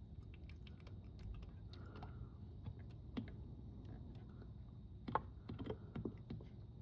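Motor oil being poured slowly from a plastic quart bottle into the engine's oil filler: faint, irregular clicks and crackles, with a short run of louder pops about five seconds in.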